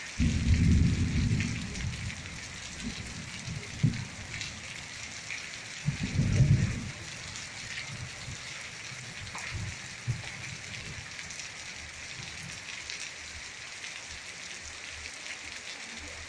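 Steady rain falling, a constant hiss with scattered drop ticks. Two brief low rumbles stand out over it, one just after the start and one about six seconds in.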